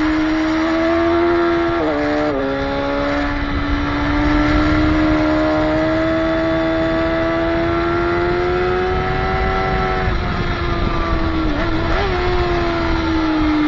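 Motorcycle engine at high revs on a racetrack, its pitch dropping at a gear change about two seconds in, then climbing slowly through a long pull before it wavers and falls near the end. Wind rushes on the microphone underneath.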